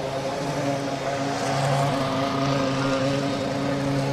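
A vehicle engine running at a steady pitch that comes and goes every half second or so, over a steady haze of circuit noise.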